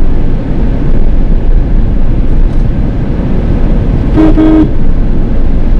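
Loud low rumble of a Mahindra XUV300 being driven, heard from inside the car, with one short car horn honk about four seconds in.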